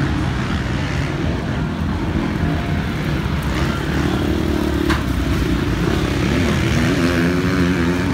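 Motocross bike engine running hard on the track, its pitch rising and falling as it revs through the gears.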